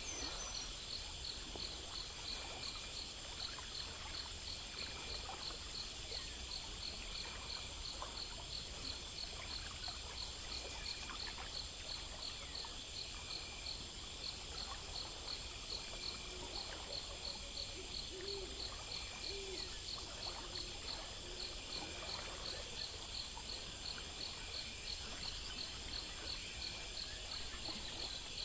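Night nature ambience: insects chirping in steady, rhythmic, high-pitched trills, several layers at once. A few faint low calls come about two-thirds of the way through.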